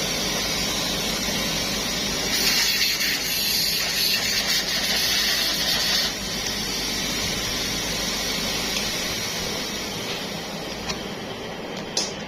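A steady machine hum with a louder hiss of gas from about two to six seconds in, and a couple of sharp clicks near the end.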